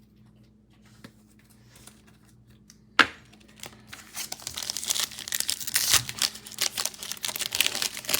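Wrapper of a 2021 Illusions football card pack being torn open: a sharp rip about three seconds in, then several seconds of crinkling and tearing of the wrapper.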